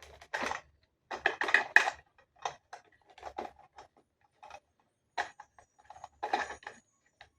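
Hand handling of hard parts from a newly unboxed product: scattered clicks, knocks and short rustles as pieces are tried for fit into one another.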